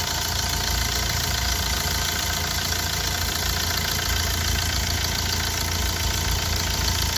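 Hyundai i20 common-rail diesel engine idling steadily. Its fuel injectors have just been serviced and it runs with no misfire and none of the earlier tak-tak knock, the sign of a faulty injector now fixed.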